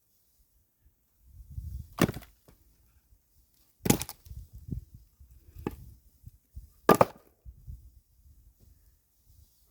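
Firewood being split by hand: four sharp chopping strikes into logs, about one and a half to two seconds apart, the second and fourth the loudest.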